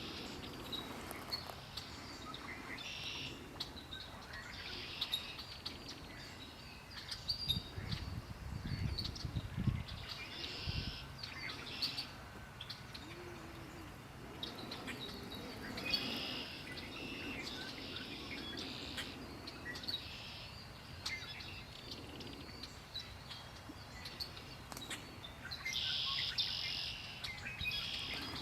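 Several wild birds singing and chirping in overlapping short high-pitched phrases, with a brief low rumble about eight seconds in.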